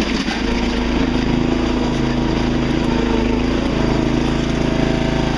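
Riding lawn tractor's small engine running steadily under way, with a brief wobble in its note just after the start.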